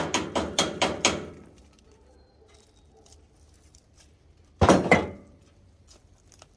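A quick run of sharp knocks, about six in a little over a second, then quiet, then another loud knock about four and a half seconds in.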